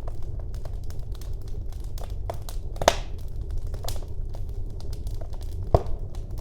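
Wood fire burning in a fireplace: a steady low rumble of flames with scattered crackles, and sharper pops about three seconds in and again near the end.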